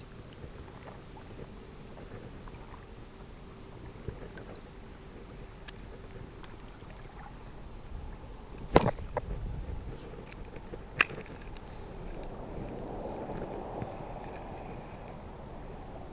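Steady outdoor background hiss with a loud hollow knock about nine seconds in, a few smaller knocks after it, and a single sharp click about two seconds later.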